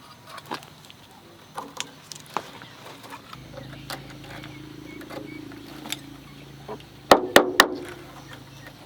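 Scattered light taps and clicks, a low steady hum starting about a third of the way in, and a quick run of three or four sharp knocks near the end.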